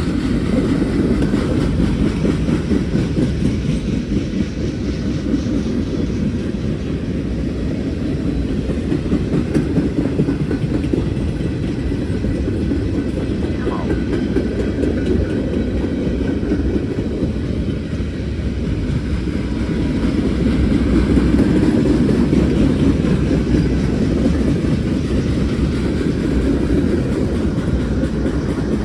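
Freight train cars rolling past: a steady rumble of steel wheels on rail with the clickety-clack of wheels over rail joints.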